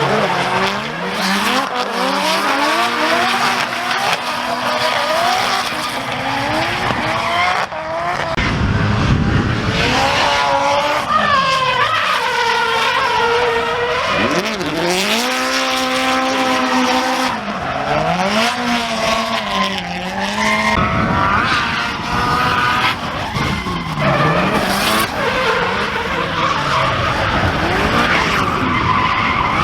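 Drift cars sliding under power: engines revving up and falling back over and over, sometimes two engine notes at once, over a continuous screech of spinning, sliding tyres.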